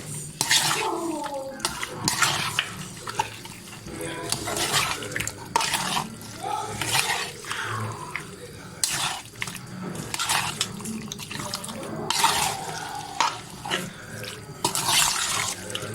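Wet kitchen sounds: water splashing and sloshing, with irregular clinks and knocks of a utensil against a pot.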